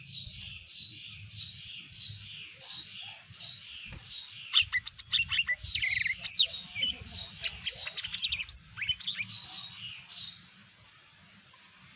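Cucak ijo mini (a small leafbird) singing: a run of evenly repeated falling notes, then from about four seconds in a louder, rapid jumble of sharp chips and whistles that stops about ten seconds in. A faint low rumble sits underneath.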